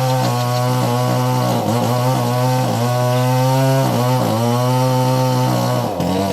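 A small engine running steadily, its pitch dipping briefly and recovering several times.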